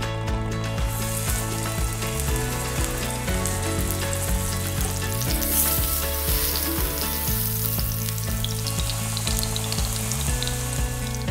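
Eggplant slices sizzling as they fry in hot oil in a frying pan, the sizzle starting about a second in, with background music underneath.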